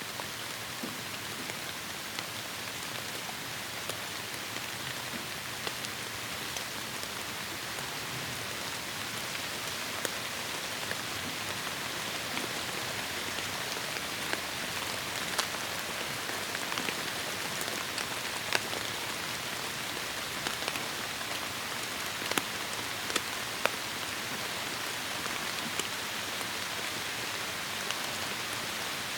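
Heavy rain falling steadily on forest foliage, a dense hiss with individual drops ticking sharply through it, a few louder splats in the second half.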